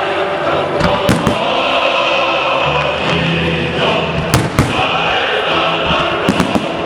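Fireworks salute going off, a few sharp bangs about a second in, again in the middle and near the end, over loud choral music.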